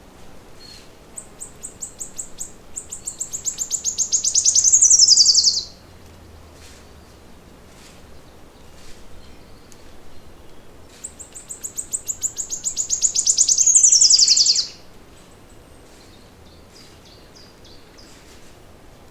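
A songbird sings twice, each song about four seconds long. Each is a run of high, rapid notes that grows louder and faster and ends in a quick falling flourish.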